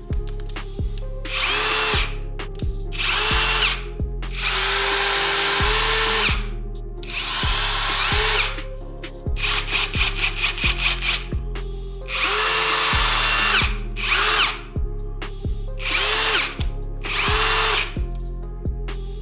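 Parkside Performance PDSSAP 20-Li A1 cordless impact driver running in repeated bursts of a second or two, its motor whine rising as each burst starts; one burst about halfway through breaks into quick stuttering pulses. Background music with a steady beat plays underneath.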